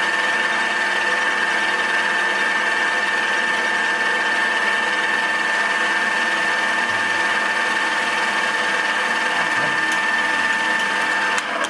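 Milling machine running with a fly cutter, taking a very light pass that is just touching the work, giving a steady whine. The machine shuts off suddenly just before the end.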